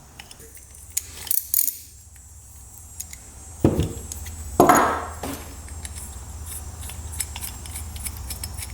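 Small metal carburetor parts and tools clicking and clinking as a carburetor is taken apart, with two louder clatters near the middle. A low steady hum comes in about three and a half seconds in.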